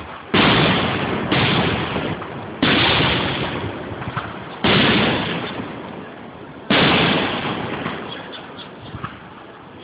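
Aerial firework shells bursting: five loud bangs at uneven intervals, each trailing off in a fading rumble of echo.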